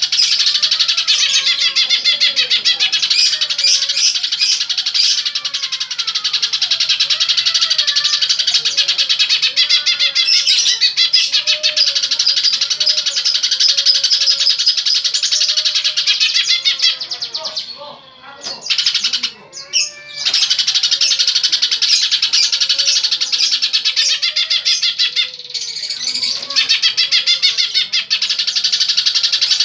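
Pet birds chirping in a dense, continuous chatter of rapid high notes, dropping away briefly a little over halfway through and again shortly after.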